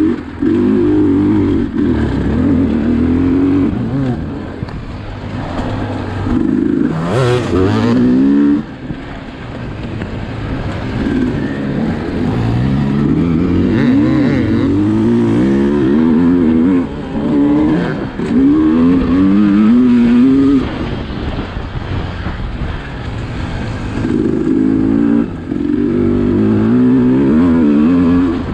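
Sherco SE 300 two-stroke enduro engine revving hard and repeatedly, its pitch climbing under throttle and dropping back as the throttle is shut or the gears change, with a few short lulls.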